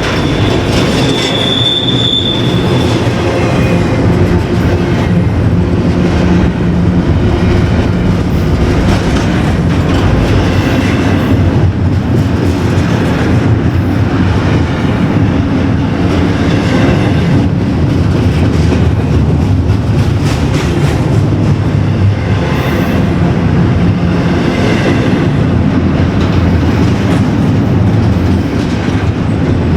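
A train rolling past at close range: a steady rumble from the railcars and wheels, with repeated clicks of wheels over the rail joints. A high-pitched wheel squeal rings out for a second or so near the start.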